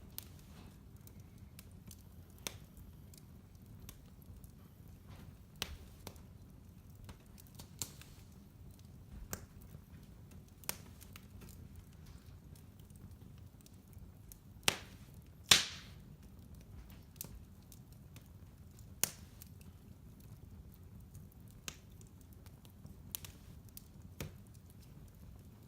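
Wood fire crackling in a fireplace: scattered sharp pops and snaps over a faint, steady low rumble, with the two loudest pops close together a little past halfway.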